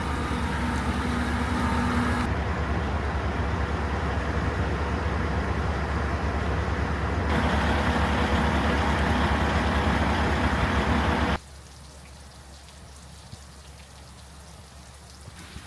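Steady low rumble of a train running, in cut-together takes with the level stepping up and down. About eleven seconds in it cuts off abruptly, leaving a much quieter steady hiss.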